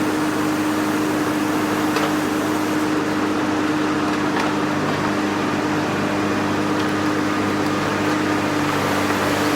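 Komatsu PC350 long-reach excavator running with a steady engine hum, with a couple of faint knocks.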